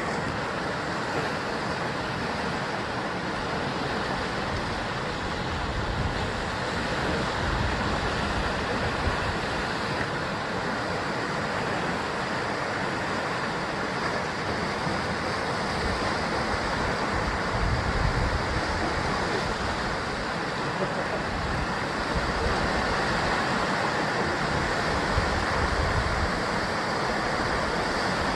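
Sea waves breaking and washing against a rocky basalt coastline in a continuous, steady surf, with low rumbles swelling now and then.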